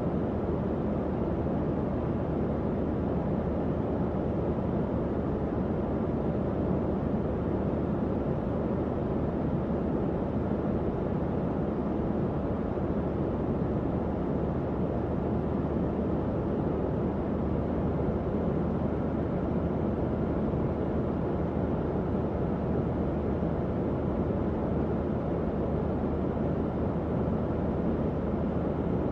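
Tower fan running steadily: an even, low-pitched whoosh of moving air with a faint motor hum underneath.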